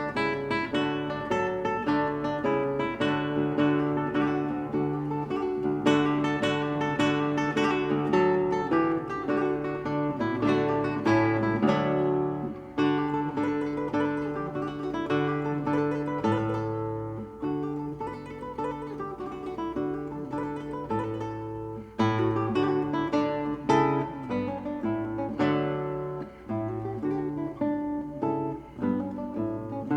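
Acoustic guitar playing, with many quickly plucked and strummed notes and no voice.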